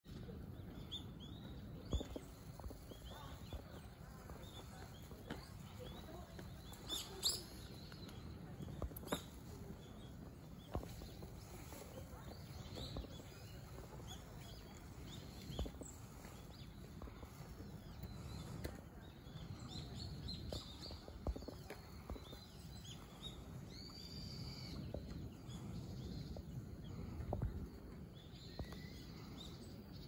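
Faint ambience of scattered small bird chirps and short calls over a low, steady rumble, with a few sharp clicks, the loudest about two and seven seconds in.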